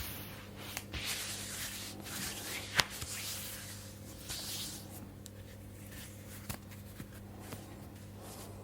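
Hands slowly rubbing and sliding over oiled skin and fabric, a soft rustling that comes and goes, with one sharp click a little under three seconds in and a few fainter ticks later.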